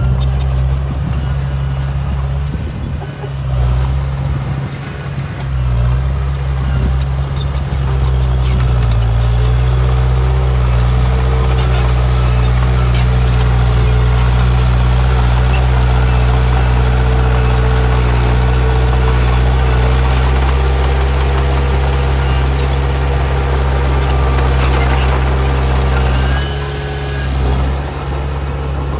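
Heavy diesel engine of earthmoving machinery running steadily. Its pitch shifts about eight seconds in, and a short drop comes near the end.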